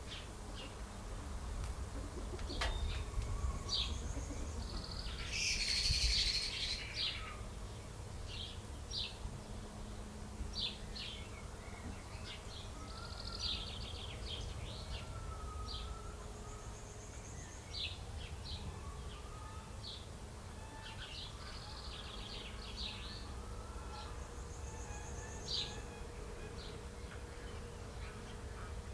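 Small birds chirping, with many short, high chirps scattered throughout and a louder, noisy rustling burst about six seconds in, over a steady low rumble of background noise.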